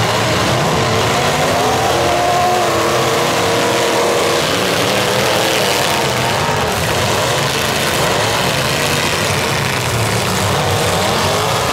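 Several demolition derby cars' engines running and revving at once through open exhaust pipes, a loud, steady din with engine notes rising and falling.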